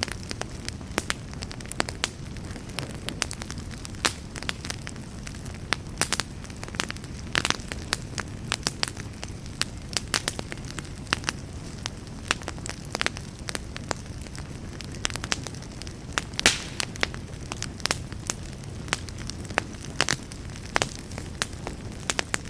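Campfire burning with a steady low rumble and frequent irregular crackles and pops, one sharper pop about two thirds of the way through.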